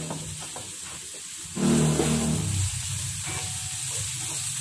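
Diced carrots, onion and garlic sizzling in oil in a nonstick frying pan while being stirred with a spatula; the frying gets louder about a second and a half in.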